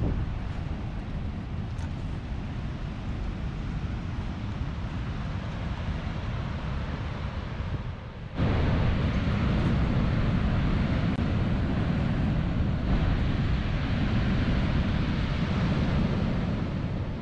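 Wind rushing over the microphone with ocean surf behind it, a steady noise with no tones. About eight seconds in it jumps abruptly louder and fuller, as at a cut to a windier spot, and stays so until a fade near the end.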